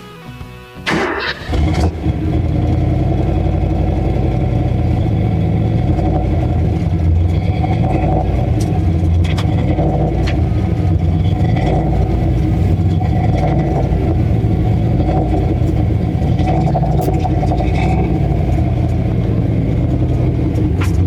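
Turbocharged 351 Windsor V8 in a Foxbody Mustang, heard through its newly added exhaust on the turbo downpipe. It comes in about a second in and then runs loud and steady, with no big revs.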